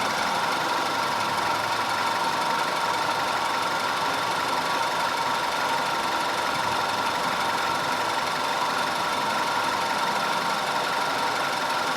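Audi 2.0 TFSI turbocharged four-cylinder engine idling steadily.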